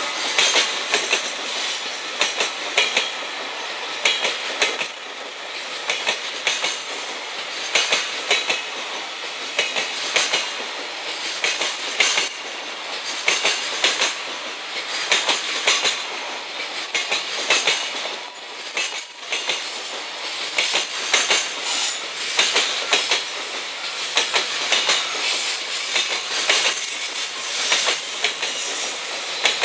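Loaded Koki container flat wagons of a freight train rolling past at speed, their wheels clicking over the rail joints in a continuous run of clacks over the steady rumble of the train.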